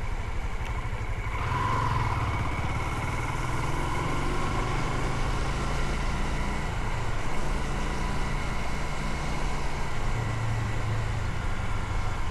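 Motorcycle engine running steadily on the move: a low engine hum inside a constant rush of noise, with a brief higher tone about two seconds in.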